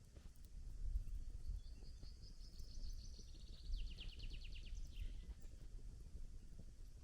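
A songbird sings once: a high warbling phrase that runs into a quick trill of falling notes, ending about five seconds in, over a low, steady outdoor rumble.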